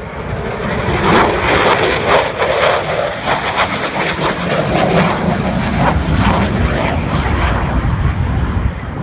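Lockheed Martin F-22 Raptor jet flying past, its twin Pratt & Whitney F119 turbofans making a loud rushing roar. The roar swells about a second in and has a rough crackle for several seconds before settling to a steady low rumble.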